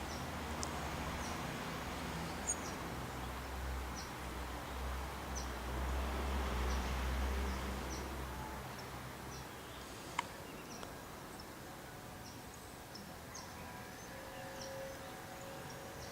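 Distant Boeing 737-700 jet with CFM56 engines flying over: a low rumble and broad roar that swells to its loudest about seven seconds in, then fades away. Short high chirps repeat about once a second throughout, and there is one sharp click about ten seconds in.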